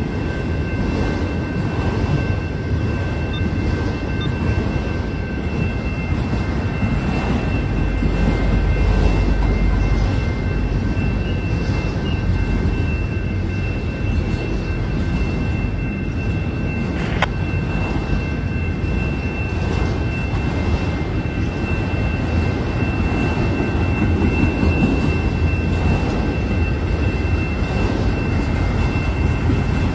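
Freight train of autorack cars rolling past at about 23 mph: a steady low rumble of steel wheels on rail with faint thin high-pitched tones above it, and one sharp click about 17 seconds in.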